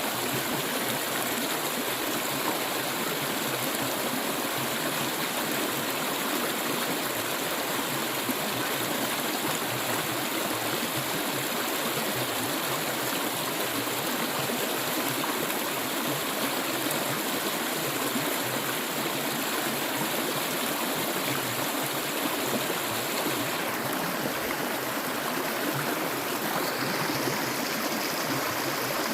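Clear water flowing steadily, an even, unbroken rush of running water.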